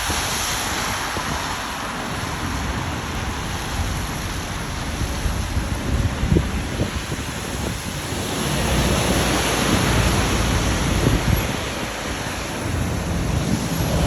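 Gale-force storm wind gusting and buffeting the microphone with a low rumble. It swells in a gust a little past the middle and again near the end.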